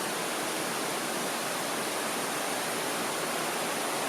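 Steady rushing of waterfall and river water, an even hiss that does not change.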